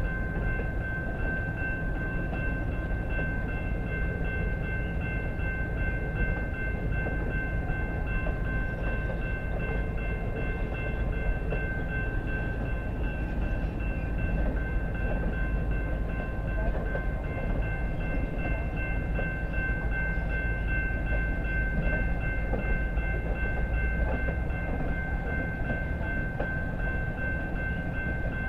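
Steady train noise: a continuous low rumble with a steady, unchanging high-pitched whine.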